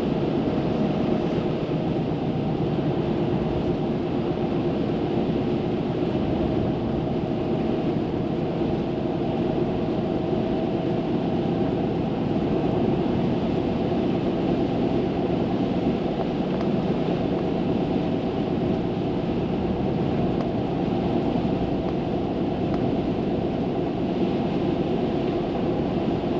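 Steady road noise and engine hum inside the cabin of a car cruising along a road.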